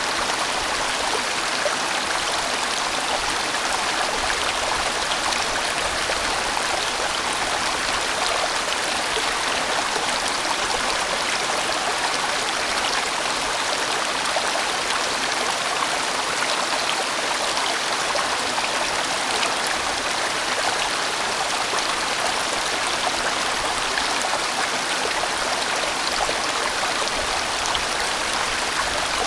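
A large, winding valley stream flowing, its water making a steady, unbroken rush.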